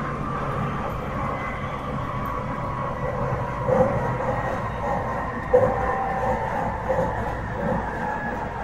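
A Tsukuba Express TX-1000 series electric train running on the line, heard from inside the car: steady rumble of wheels on rail with a faint whine from the traction equipment, and a few short knocks from the wheels partway through.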